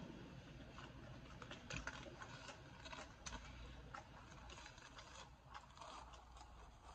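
Faint close-up chewing of a chopped cheese sandwich on a hero roll: soft, irregular mouth clicks and smacks.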